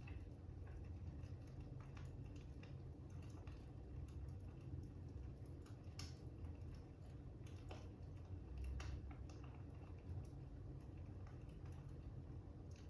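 Fire crackling faintly: irregular small pops and snaps, one sharper pop about six seconds in, over a steady low rumble.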